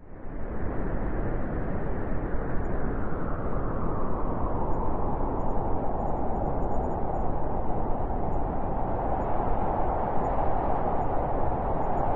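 Blizzard wind howling, a steady rushing noise that rises quickly out of silence at the start and then holds, strongest in its low-to-middle range.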